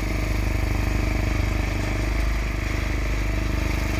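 Engine of a John Deere snow-clearing machine running steadily at an even speed.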